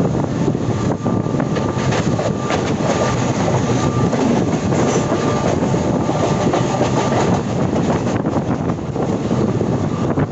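Passenger train running along the track, its wheels clattering over the rails with a steady rumble and frequent clicks.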